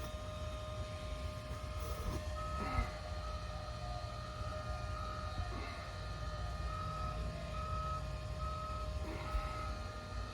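Steady machine hum over a low rumble, with a repeating electronic beep, about one to two a second, starting a couple of seconds in.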